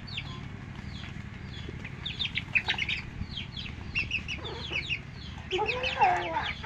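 Domestic chickens calling as they feed: many short, high, falling peeps from chicks throughout, and a few lower, drawn-out hen calls over the last two seconds.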